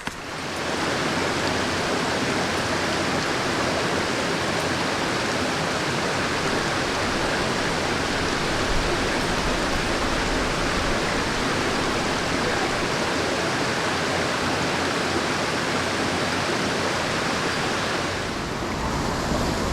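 Steady rush of water pouring over a waterfall on a mountain stream, fading in over the first second and shifting slightly in tone near the end.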